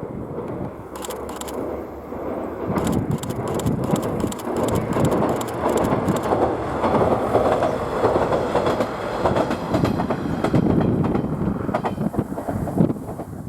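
KiHa 110 series diesel railcar running past, with its wheels clicking over the rail joints, most densely in the first half.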